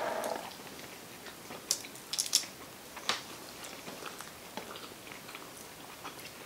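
People chewing and biting sushi, with a few short crisp crunches about two and three seconds in.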